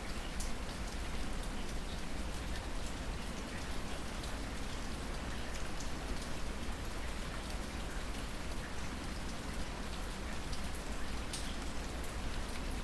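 Steady rainfall: an even hiss of rain with scattered individual drops ticking on a surface, and no thunder.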